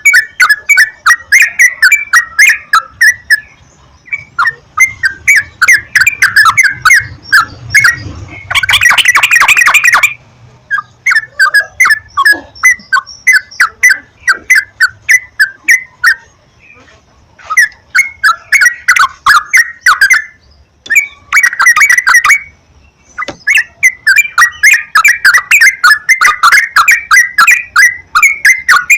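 Yellow-vented bulbul (trucukan) chattering in loud runs of short, bubbly 'cuk-cuk' notes, with a couple of denser, faster rattling phrases and brief pauses between runs.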